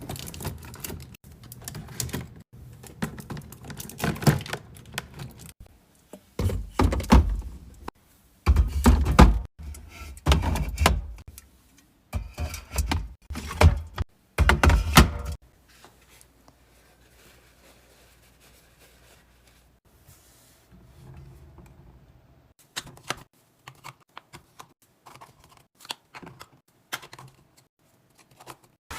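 Restocking handling sounds: repeated clicks, taps and thunks as plastic containers, bottles and packages are picked up, opened and set down. The busiest and loudest handling comes in the first half, then a quieter lull, then a few more clicks near the end.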